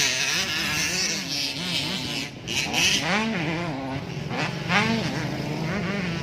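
Motocross motorcycle engines revving up and down, their pitch rising and falling again and again, with several rising sweeps in the middle.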